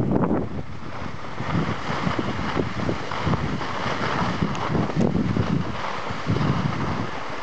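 Wind buffeting the microphone in irregular gusts, over a steady hiss.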